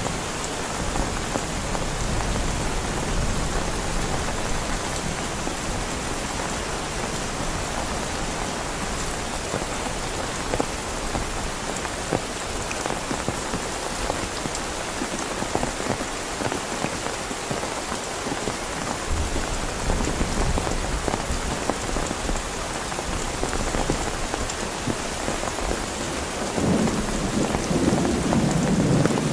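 Heavy rain falling steadily, with low thunder rumbling a few times, the loudest rumble near the end.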